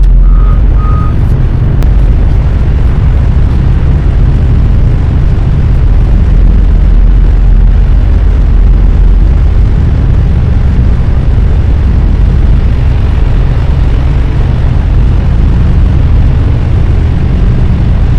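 Semi truck's diesel engine running steadily, a loud low rumble. A high beep repeats about twice a second at the start and stops about a second in.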